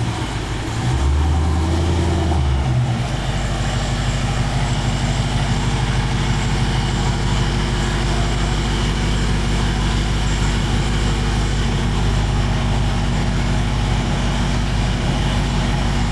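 Loud car engine idling with a choppy, cammed lope; the sound shifts about three seconds in and then runs steadily.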